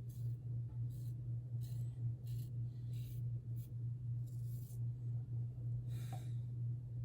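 Brass Karve safety razor scraping across lathered stubble in short strokes, about eight scratchy strokes at uneven intervals, over a steady low hum.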